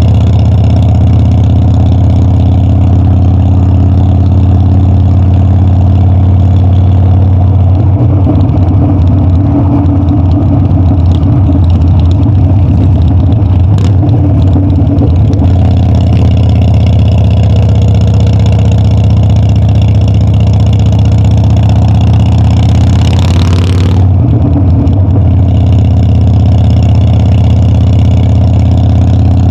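Harley-Davidson Dyna's V-twin engine running loud and steady during a ride, rougher for a stretch in the middle. A rising rush of noise builds near the end and cuts off suddenly.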